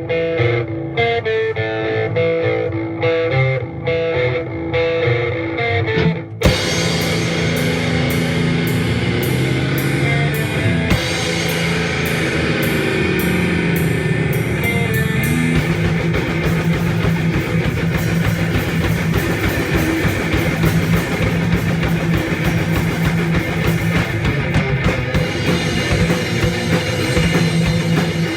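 Instrumental intro of a metal song: a guitar picks a repeating figure, then about six seconds in the full band comes in with distorted electric guitars, bass and a drum kit, playing on steadily.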